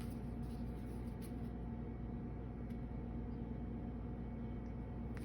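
Quiet room tone with a steady low hum and a couple of faint ticks.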